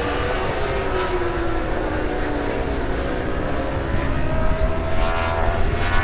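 Racing superbike engines running at high revs. Their pitch falls over the first few seconds, then climbs again from about four seconds in, as a bike brakes and then accelerates.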